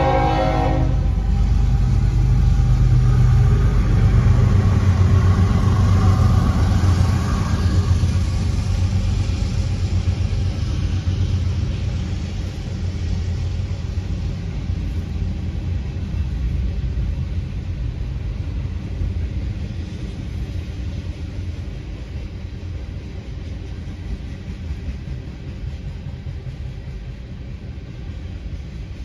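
A CSX freight train passing over a grade crossing. Its horn cuts off about a second in, and a low rumble of locomotives and then rolling freight cars follows, loudest early and slowly fading. It is heard from inside a car.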